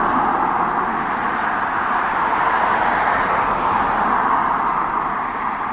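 Steady rushing noise of road traffic, a continuous even hiss with no distinct events, easing slightly toward the end.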